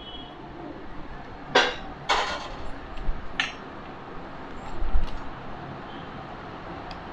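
Metal kitchen utensils clinking against a steel cooking pot while rice-flour dumplings are dropped into boiling water. There are three sharp, ringing clinks in the first half and a dull knock about five seconds in.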